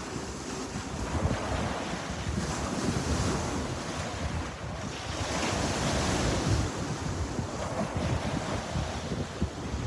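Sea waves washing onto the shore, swelling twice, about two and a half and five and a half seconds in, over wind rumbling on the microphone.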